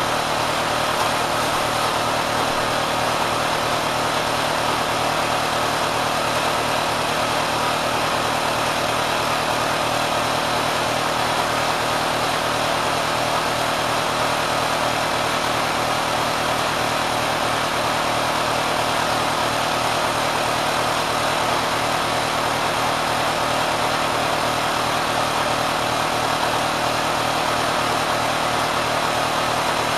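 Kenmore sewing machine driven by a swapped-in 3/4 hp electric motor, running continuously with a steady, unchanging machine noise, pushed well past its factory speed.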